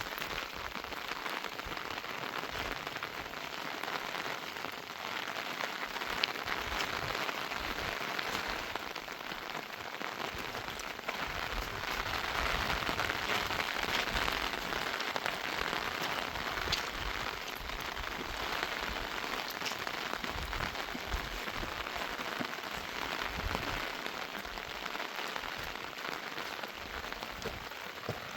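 Rain falling steadily, with many small drop impacts ticking close by.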